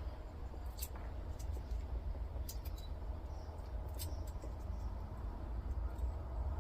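Light scratching and scattered faint clicks of fingers picking at the tape and plastic wrapping on a small copper-wound transformer, over a low steady rumble.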